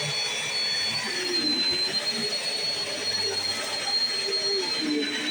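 Bissell CleanView Swivel Pet upright vacuum cleaner running on its floor setting, a steady motor hiss with a high whine that wavers slightly in pitch.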